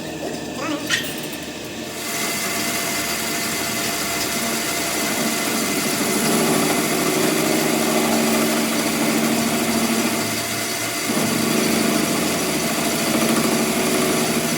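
A metal clink, then a workshop machine starts about two seconds in and runs steadily, getting stronger a few seconds later and dipping briefly near the end.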